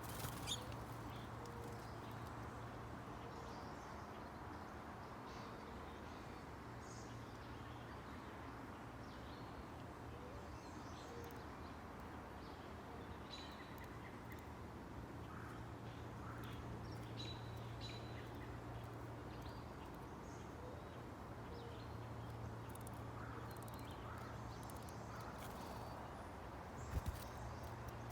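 Faint, scattered chirps and calls of songbirds over a steady low hum, with a couple of short clicks near the start and near the end.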